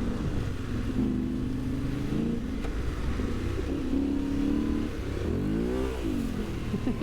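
Adventure motorcycle engine running at low speed on a dirt road, its note steady, then rising and falling once as it is revved about five and a half seconds in.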